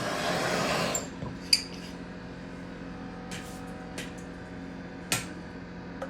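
About a second of hissing noise, then sharp metallic clinks of tools and parts being handled on a workbench, four or five single clinks with the loudest about a second and a half in, over a steady low hum.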